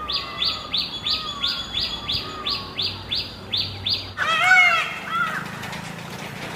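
Bird calls: a rapid series of about eleven short, high, evenly repeated notes, about three a second. Near four seconds in, a louder, harsher burst of calls follows.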